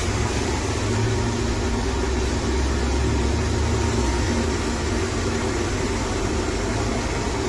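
Xiaomi Mi Robot Vacuum-Mop Essential running: a steady rushing noise from its suction fan, with a low hum underneath.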